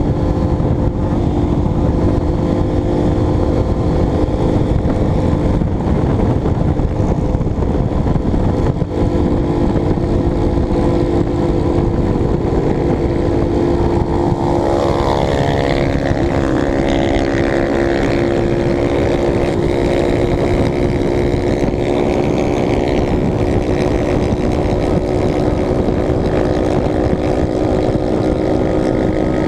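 Honda CBX 250 Twister single-cylinder motorcycle engine running steadily while riding, with a constant rush of noise underneath; about halfway through, the engine note glides and settles at a different pitch.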